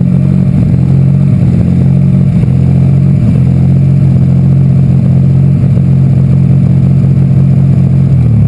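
Alfa Romeo V6 turbo engine of a Harper Type 5 sports racer running loudly at steady revs, its pitch dipping slightly near the end.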